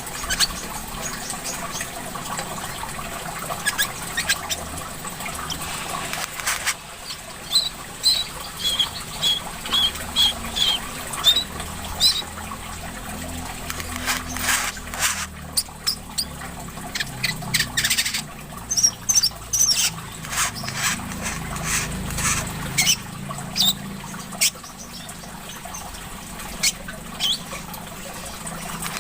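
Small caged songbirds chirping in short, sharp calls over steadily trickling water, with a quick run of repeated high notes partway through and more chirps later on.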